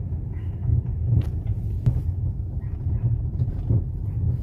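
Ford Fusion on the move, a steady low road-and-drivetrain rumble, with two sharp knocks about one and two seconds in: the 'ploc-ploc' suspension knock the car is being checked for.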